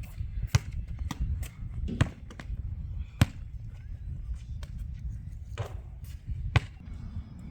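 A basketball being bounced and struck: four sharp thuds a second or more apart, with lighter taps between, over a steady low rumble.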